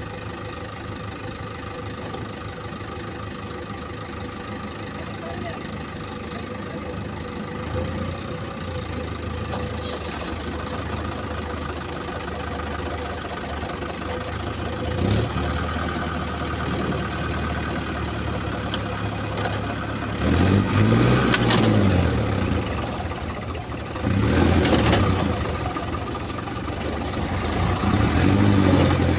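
Diesel tractor engines running steadily, then revved hard twice, once about two-thirds of the way in and again a few seconds later, the pitch rising and falling each time: tractor engines labouring under load as a stuck Swaraj tractor is pulled out of mud by a Mahindra Arjun Novo 4x4.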